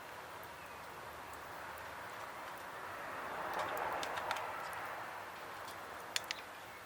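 Wood campfire burning in a small fire stand: a soft hiss that swells midway, with a few sharp crackles and pops.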